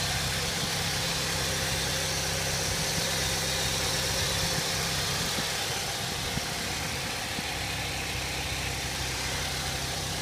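2002 Saturn L200's 2.2-litre four-cylinder engine idling steadily, dropping slightly in level about six seconds in.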